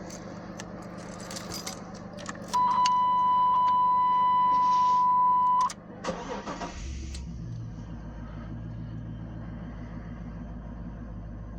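Keys jingle and click, then a loud, steady high-pitched warning buzz sounds for about three seconds as the ignition is switched on. After it stops, the 1992 GMC Sierra C1500's engine cranks briefly, catches about six and a half seconds in and settles into a steady low idle on a cold start.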